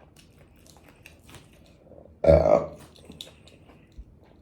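A woman's single short burp about two seconds in, between faint clicks of chewing food.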